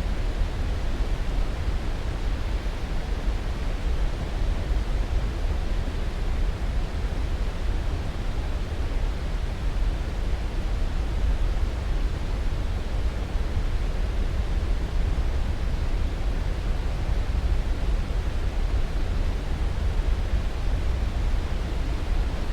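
Steady sleep-aid noise, an even, unchanging hiss, heaviest in the deep low end and thinning toward the top, with no rhythm or separate events.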